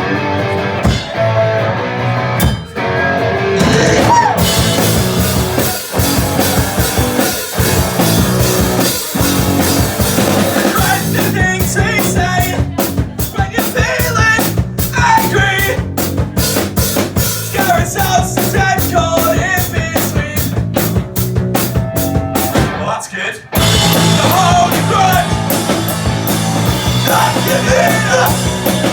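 Rock band playing live, loud drums and amplified instruments with a voice singing. In the middle the band plays a stop-start run of short, punchy hits, breaks off for a moment shortly before the end, then comes back in at full volume.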